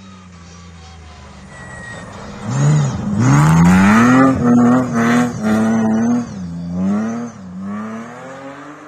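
BMW rally car's engine approaching and passing at high revs, its note climbing sharply as it comes into the corner and held hard while the car slides sideways through the snow, then dipping twice and fading as it pulls away.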